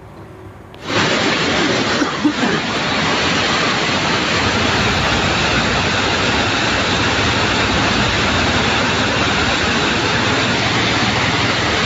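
Floodwater rushing in a steady, loud wash that sets in suddenly about a second in and holds even throughout.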